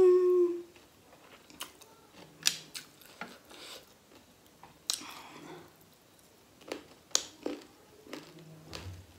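Close-miked eating sounds of a person chewing grilled pork and rice with wet lip smacks and sharp mouth clicks, scattered irregularly. A short hummed "mm" opens it and is the loudest sound.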